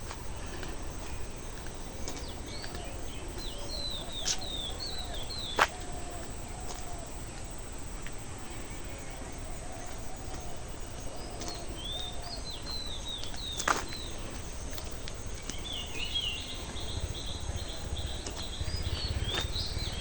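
Small birds chirping in quick runs of short falling notes, coming and going in three bouts, over a steady low rumble of outdoor air, with two sharp clicks.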